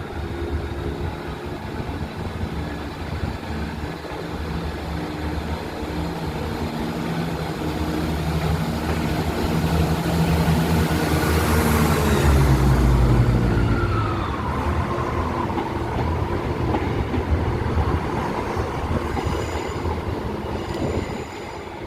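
Southern Class 171 Turbostar diesel multiple unit pulling out of the station, its diesel engines revving up under power. It grows louder to a peak about halfway through as it passes, then a falling whine follows as it draws away.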